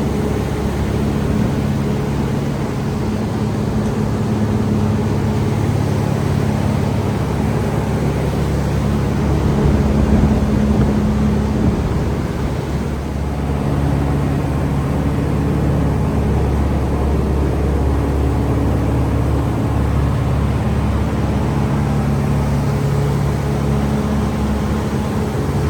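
Boat engine running steadily, a low hum whose pitch shifts slightly about halfway through.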